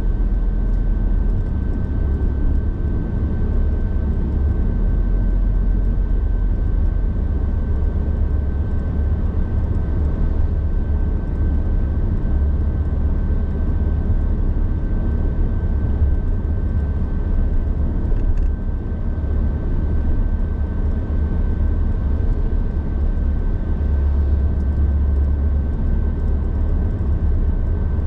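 Car driving at highway speed: a steady low rumble of road and wind noise that swells and eases, with a thin steady high tone above it.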